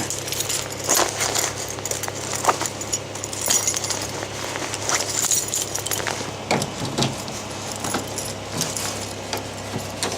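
A bunch of keys jingling and clinking as they are handled and pushed into a pocket, in scattered bursts over a steady low hum.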